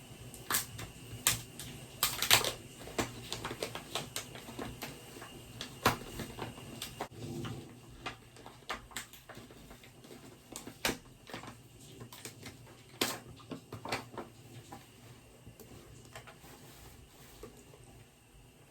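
Scattered clicks, taps and knocks of small objects being handled, irregular and loudest about two and six seconds in, thinning out toward the end.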